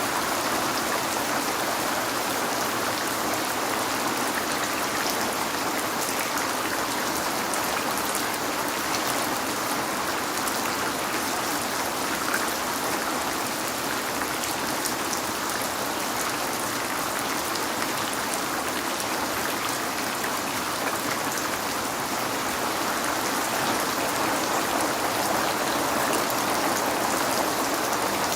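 Steady rain falling on a window, an even hiss of drops with faint small taps and no change in intensity.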